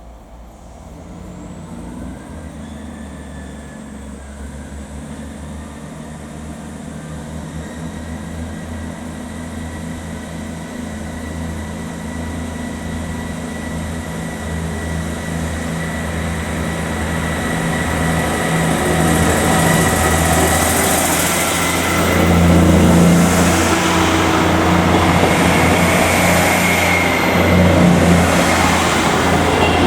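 Diesel train engine running steadily, its low note growing steadily louder over about thirty seconds as the train approaches, loudest near the end.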